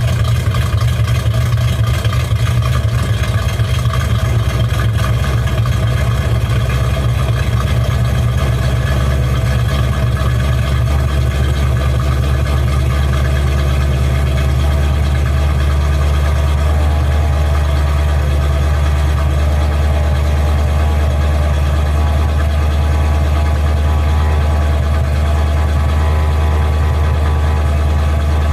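Mildly cammed Chevrolet 305 small-block V8 idling steadily through a short, open aftermarket exhaust, with a noisy gear-drive timing set. The idle settles slightly lower about halfway through.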